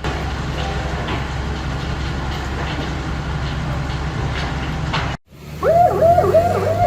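A steady low rumble with scattered crackles and clicks, which cuts off abruptly about five seconds in. After the cut, an emergency vehicle siren starts up in a fast yelp, several rising-and-falling wails a second.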